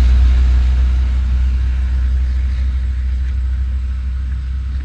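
Steady low rumble of a motor vehicle on the move, easing off slightly.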